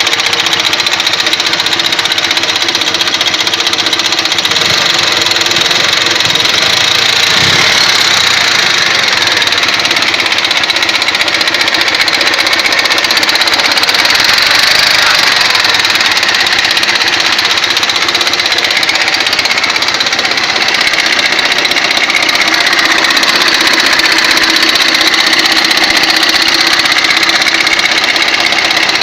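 Ural motorcycle's flat-twin engine running steadily with a persistent knock in it, which the owner, judging by ear, thinks comes from the camshaft.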